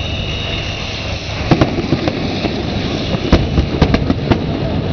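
Aerial fireworks bursting: a run of about eight sharp bangs starting about a second and a half in, some in quick pairs, over a steady low rumble.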